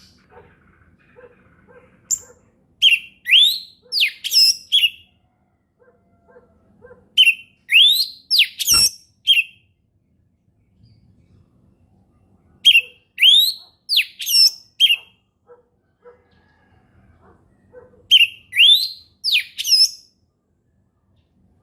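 Orange-headed thrush singing in the open 'ngeplong' style: four phrases of quick, clear rising and falling whistles, each about two seconds long, with pauses of a few seconds between them. A single sharp click falls in the second phrase.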